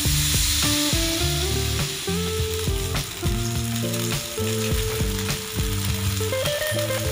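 Rava dosa batter sizzling on a hot tawa, a steady frying hiss, with background music playing underneath.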